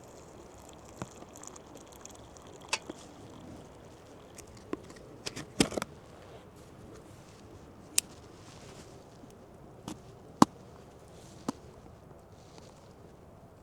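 Scattered sharp clicks and knocks, about a dozen at irregular intervals with a short cluster near the middle and the loudest about ten seconds in, over a faint steady hiss.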